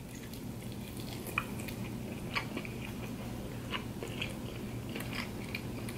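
Close-miked chewing of barbecue ribs: soft, wet mouth clicks and smacks as meat is bitten and chewed off the bone, over a low steady hum.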